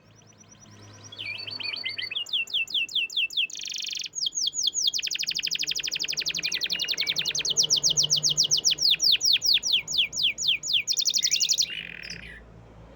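Domestic canary singing one long song phrase of fast repeated trills made of rapid down-slurred notes, with a brief buzzy stretch about four seconds in, then a long rolling trill that stops near the end.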